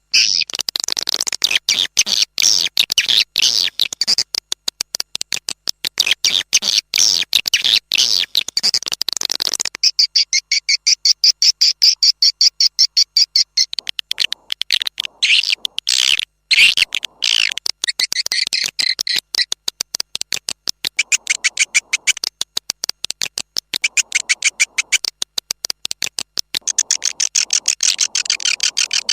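Recorded swiftlet calls played as a lure (a 'call sound' for a swiftlet house): dense, rapid twittering chirps and clicks repeating without pause, with a stretch of more even, higher chirping in the middle.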